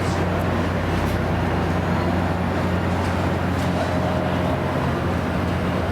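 A train's steady low drone, a constant hum that holds without change.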